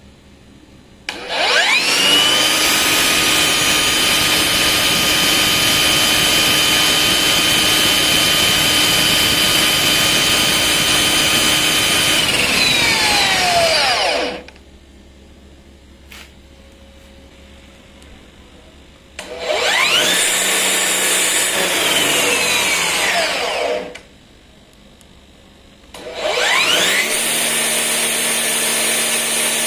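Brushless motor of a Makita DUR369A 36V cordless grass trimmer, run three times with no load. Each run spins up with a rising whine, holds a steady pitch, and coasts down with a falling whine. The first run lasts about twelve seconds, the second about four, and the third, at a somewhat lower pitch, is still running at the end.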